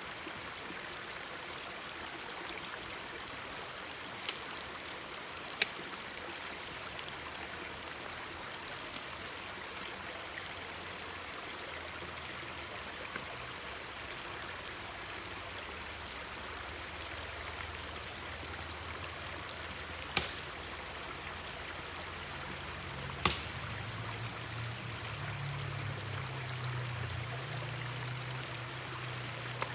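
Mountain stream flowing steadily, with a few sharp pops and cracks from a wood campfire, two of them louder about twenty and twenty-three seconds in. A low rumble comes up in the last few seconds.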